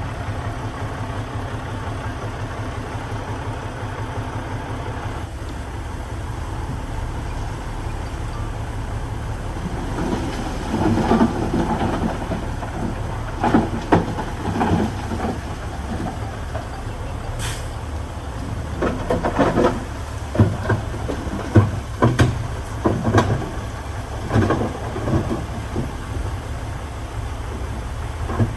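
Heavy diesel earthmoving machine running steadily. From about ten seconds in come repeated bursts of clattering and scraping, typical of stone being pushed and tumbling.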